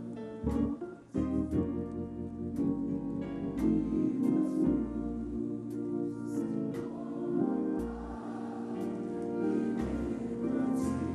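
Organ and piano playing gospel chords over a bass line.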